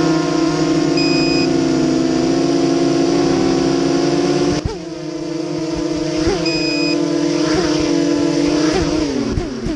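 FPV quadcopter's brushless motors whining steadily, with a few short throttle blips in the second half and the pitch falling near the end as the motors spin down. Two short high beeps sound over it, about a second in and again past six seconds.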